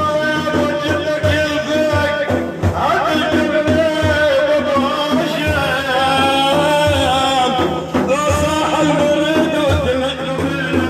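A solo voice singing a long, wavering, ornamented line of Arabic madih, a religious praise song for the Prophet, over a steady beat on a hand drum.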